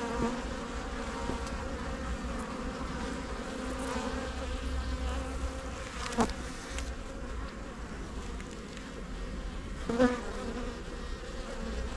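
Honey bees buzzing steadily around an opened hive during a frame inspection, with brief knocks about six and ten seconds in.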